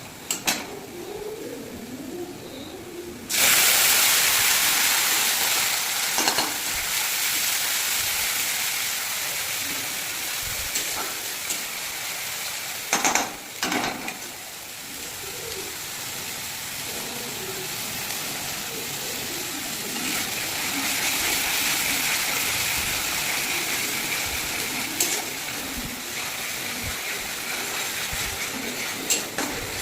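Food frying in hot oil in a pan: a loud sizzle starts suddenly about three seconds in, as something goes into the oil, and keeps on hissing. A few clinks of a utensil against the pan come near the start and again about halfway through.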